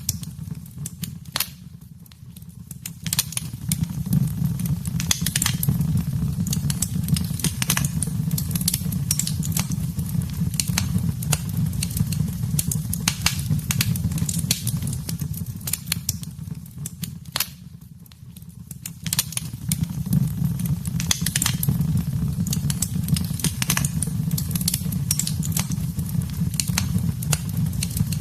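Wood fire in a fireplace crackling and popping with sharp, irregular snaps over a low steady rumble of the flames. The sound dips quieter briefly twice, about two seconds in and again about eighteen seconds in.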